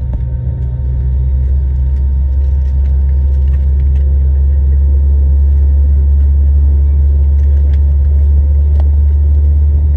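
Steady low cabin rumble inside an Airbus A321 with its jet engines running, growing a little louder over the first couple of seconds and then holding, with a few faint rattles.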